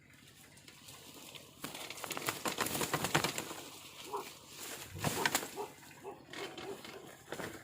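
Loud rustling and scuffling that starts about a second and a half in, with a spotted dove's low cooing notes in between.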